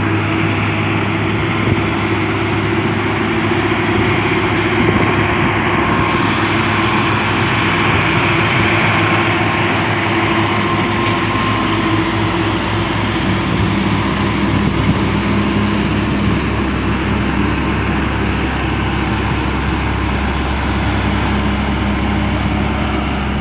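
Heavy diesel truck running at road speed, a steady engine drone over tyre and road noise; the engine note drops about halfway through, as with a change of engine speed.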